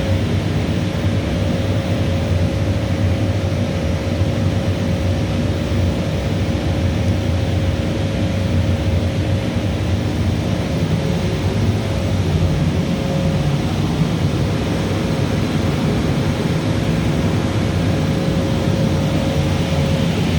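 Bosch steam boiler plant running steadily. A constant low rumble and a wider rushing noise are heard, with a thin, steady tone above them.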